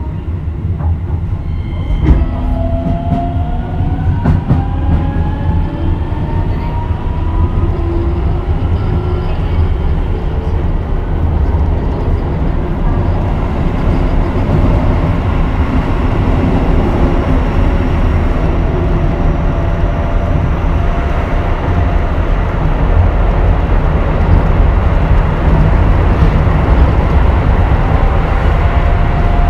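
Keisei 3000 series electric train pulling away and speeding up. The traction motors' whine rises in pitch in several tones over the first ten seconds or so while the running rumble builds, with a sharp knock about two seconds in.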